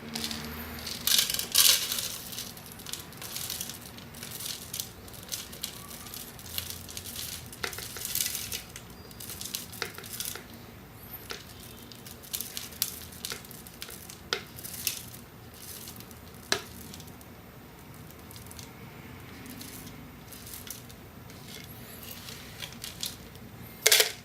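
Robot vacuum cleaners running over a floor strewn with rolled oats and powder, their motors a steady low hum under irregular crackling and rattling as the oat flakes are swept up by the brushes and sucked in. The clatter comes in clusters, with a sharp burst just before the end.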